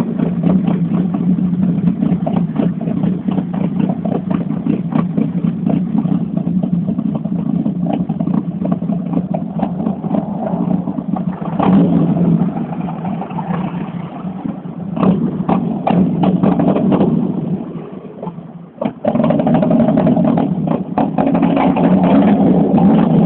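The AP 1.8S four-cylinder engine of a 1989 Volkswagen Voyage GLS, revved hard and held loud with frequent sharp crackles. Late on it briefly falls away, then is revved up again.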